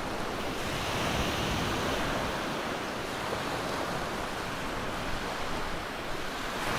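Ocean surf washing onto a beach: a steady rushing noise that swells and eases with the waves.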